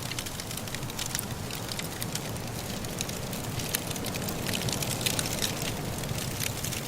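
Wood fire crackling in a fireplace, with many irregular sharp pops and snaps that come thicker about two thirds of the way in, over a steady low rush.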